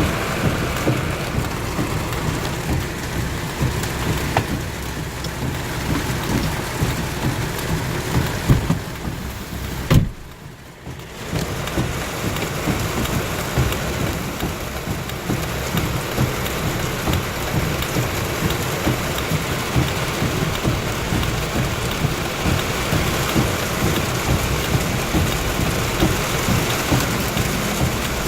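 Heavy thunderstorm rain pouring down and pattering on surfaces in a dense, steady wash. About ten seconds in there is a sharp click and the sound briefly drops away for about a second before the downpour resumes.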